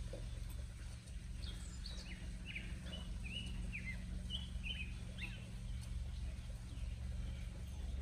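Birds chirping: a run of short, quick chirps through the first half or so, over a steady low rumble.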